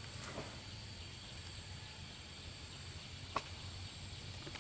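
Outdoor rural background with insects chirring steadily and a faint low hum, broken by one sharp click about three and a half seconds in.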